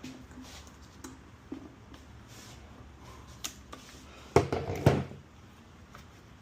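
Handling noises from swapping the air filter on a Stihl HT131 pole saw: scattered light plastic clicks and taps, then two louder knocks about half a second apart.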